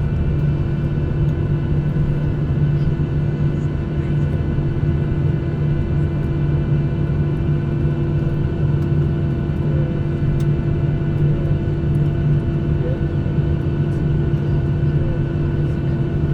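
Steady drone of a Boeing 737-800's CFM56-7B jet engines at low thrust heard from inside the cabin: a low rumble with a constant hum and no spool-up.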